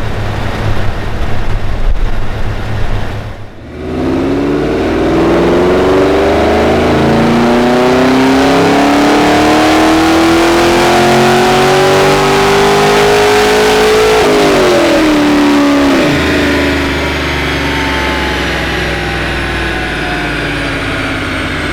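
Car engine pulling hard under acceleration, its pitch rising steadily for about ten seconds, then dropping sharply as it shifts up and carries on at lower revs.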